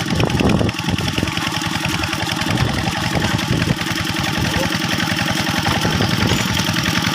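Two-wheel hand tractor's single-cylinder diesel engine running steadily, with a rapid, even chugging beat.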